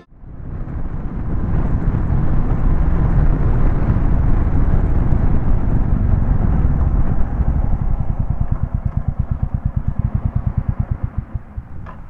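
Royal Enfield Classic 350's single-cylinder engine running under way, with rushing wind noise. From about eight seconds in, the engine settles into a slow, even thump of about eight beats a second.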